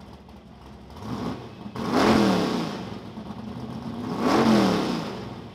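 A car engine swells to a loud peak and falls away twice, about two and a half seconds apart, its pitch climbing and then dropping each time.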